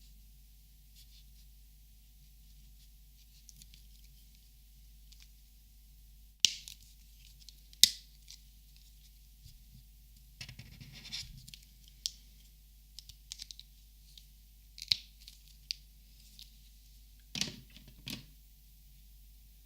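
Plastic Copic markers clicking and tapping as they are handled, with a short scratchy rustle in the middle. It is quiet for about the first six seconds, then come scattered sharp clicks, two loud ones a second and a half apart and a quick cluster near the end.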